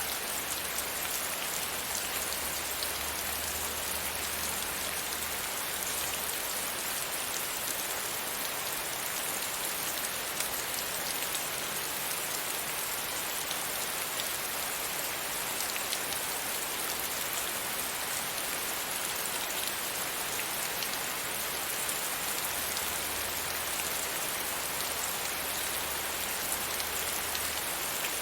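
Steady rain falling against a window pane: a dense, even hiss of drops.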